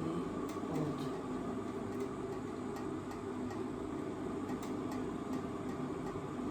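Electric kitchen appliance running with a steady hum, with a few faint scattered ticks.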